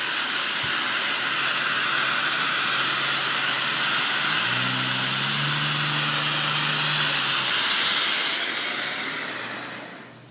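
Cone fountain firework spraying sparks with a loud steady hiss and a high-pitched whistle. The whistle fades about halfway through, and the hiss dies away near the end as the fountain burns out.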